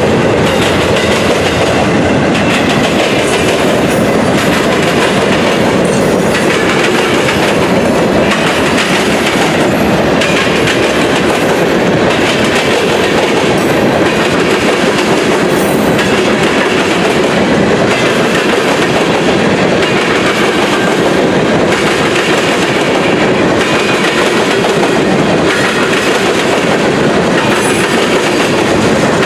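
Railroad cars rolling past steadily, their wheels clicking over the rail joints at a regular beat.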